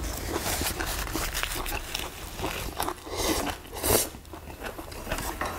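Two people chewing food at the table, close to the microphone: a run of irregular short mouth and chewing sounds.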